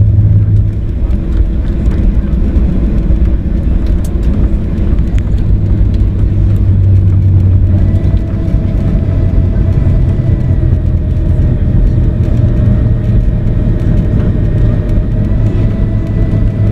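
Cabin noise inside a Boeing 737-800 airliner: a loud, steady low rumble of the CFM56 jet engines and airflow, with a thin steady whine joining it about eight seconds in.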